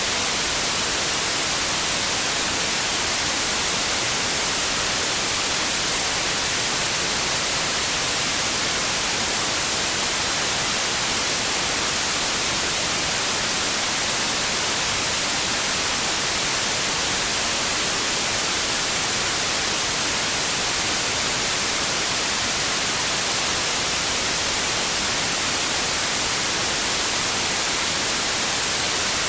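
Steady, unchanging white noise: an even hiss, brighter in the highs, with no other sounds.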